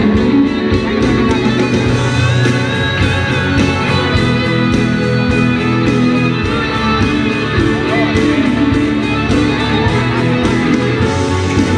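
A live band playing amplified music through a PA system: guitar over drums with a steady beat, without vocals.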